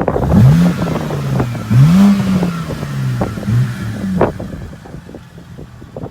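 A car accelerating hard past: the engine pitch climbs, drops at a gear change, climbs again and then falls away after about four seconds, with a sharp crack as it goes.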